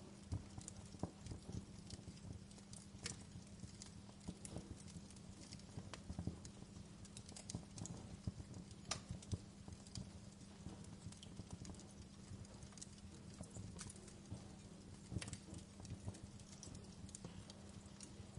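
Wood fire crackling, with irregular snaps and pops over a soft steady hiss and a faint low hum.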